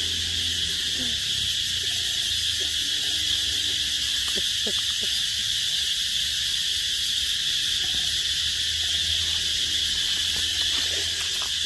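Steady chorus of insects in the undergrowth, a constant high-pitched buzz that never lets up, with a few faint low calls now and then.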